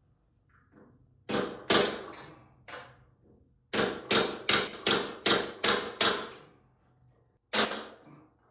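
A mallet strikes a Honda CB750 exhaust pipe again and again to seat it in place: a few separate blows, then a quick run of about seven at two to three a second, and one more near the end.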